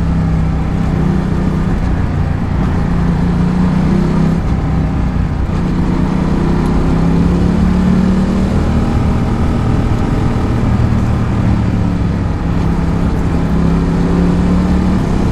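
Ducati Multistrada 1200's V-twin engine running on the move, its note falling and climbing several times as the throttle opens and closes.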